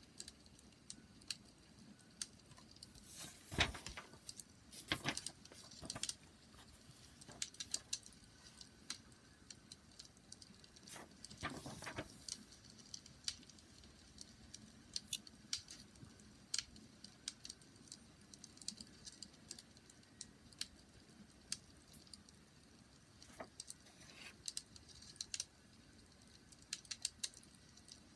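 Wood fire crackling: irregular small snaps and pops, with a few louder pops scattered through.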